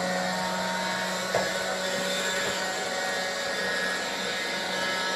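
Steady whir of a running electric motor with a constant low hum, like a household appliance, and one brief tap about a second and a half in.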